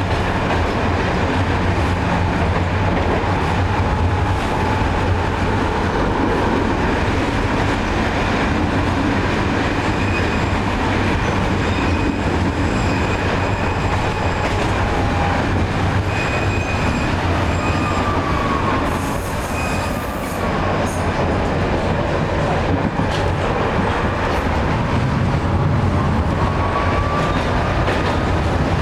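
71-623 low-floor tram running along the track, with a steady low hum and a few brief wheel squeals that slide in pitch.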